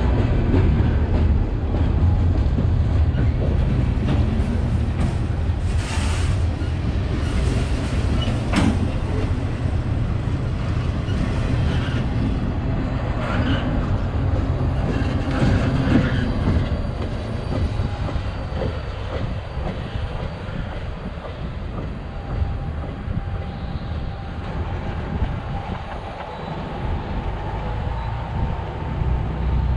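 Freight train cars rolling past at a grade crossing: a heavy low rumble of wheels on rail with a few sharp clicks. The rumble fades away in the second half as the end of the train passes and moves off.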